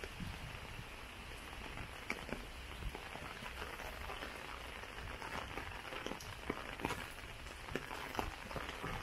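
Steady rain falling, with many scattered individual drops ticking sharply close by.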